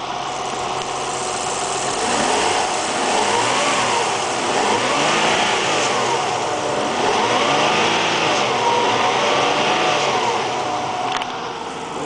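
1996 Nissan 300ZX twin-turbo 3.0-litre V6 revved twice from idle, the pitch climbing and falling back each time, then settling to idle near the end.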